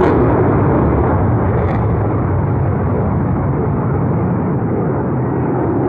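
Loud, steady roar of jet aircraft flying over at an air show, a dense rumble with no break.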